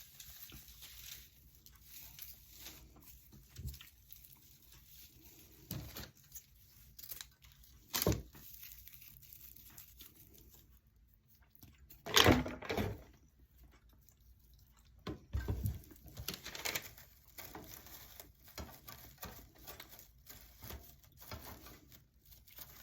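Dry raffia rustling and crinkling as it is handled, pulled apart and pressed into place, with scattered small clicks and knocks; the loudest bursts of handling come about a third of the way in and around the middle.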